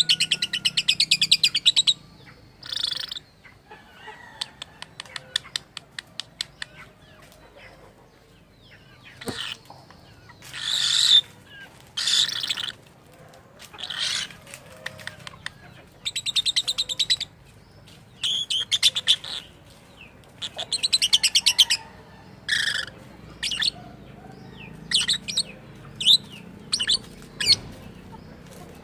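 Lovebird chattering in a series of short, rapid buzzy trills and chirps about a second each, with a run of quick clicks a few seconds in.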